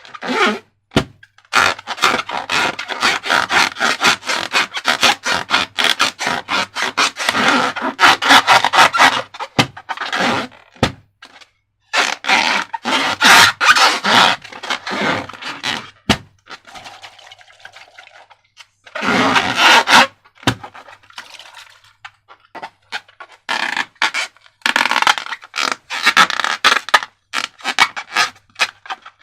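Slime being squeezed and worked by hand with balloons: bursts of dense crackling, clicking and scraping lasting several seconds, broken by short pauses.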